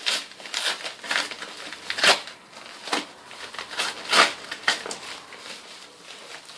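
Parcel packaging being pulled open and crumpled by hand: irregular crinkling and rustling, with two louder crackles about two seconds and four seconds in.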